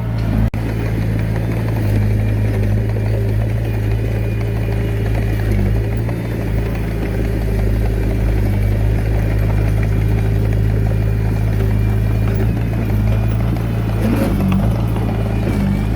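Diesel engine of a small bulldozer running steadily at a constant speed, a low even drone, with a brief break about half a second in.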